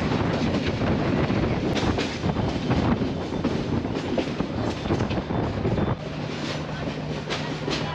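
Moving passenger train heard from its roof: a steady rush of noise with the rattle and clatter of the carriages and wheels on the track. About six seconds in, a steady low hum sets in under it.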